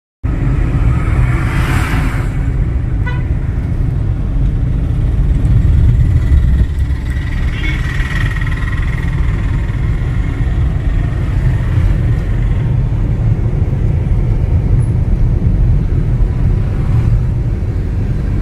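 Steady low road and engine rumble heard from inside a moving car. Around the middle a steady high tone lasts several seconds over it.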